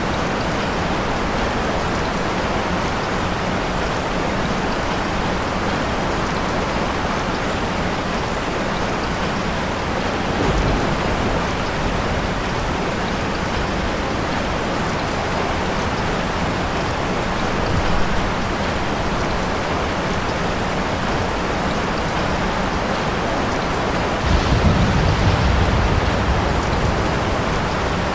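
Steady heavy rain falling, with a short low rumble of thunder about ten seconds in and a longer roll of thunder near the end.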